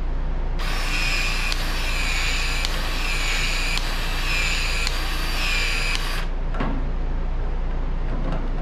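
Powered PEX-A expansion tool running for about five and a half seconds, its motor whining in a series of repeated strokes with a click between each as the head expands the pipe end and the expansion ring, turning a little each cycle.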